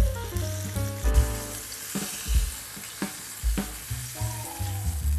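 Flour-coated fish frying in oil in a miniature pan, a steady sizzle, over background music with a steady bass beat.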